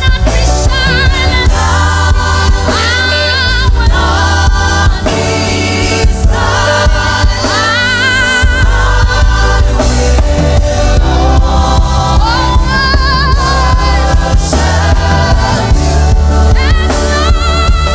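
Gospel worship music: choir and lead voices singing with vibrato over a band with a strong bass line.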